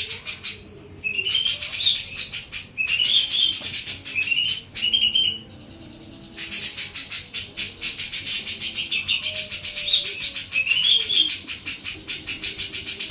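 A jenggot jawa songbird singing in full 'beset' style: a fast, dry chattering with short rising trills about once a second, broken by two brief pauses.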